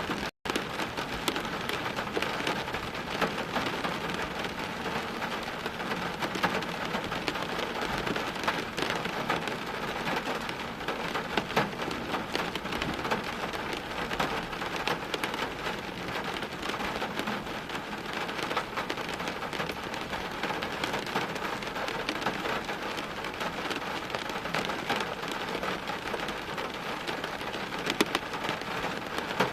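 Steady heavy rain, a dense even hiss full of the close patter of individual drops. The sound cuts out for a split second near the start.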